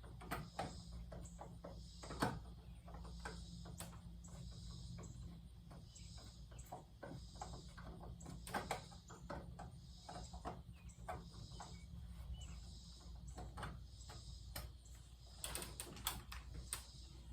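Faint scattered clicks and a few sharper knocks from ceiling fan parts and tools being handled, over a low steady hum.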